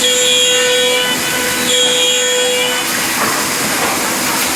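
CNC router spindle running with a steady whine over machine noise. The whine dips briefly after about a second and fades out a little before three seconds in, leaving the noise.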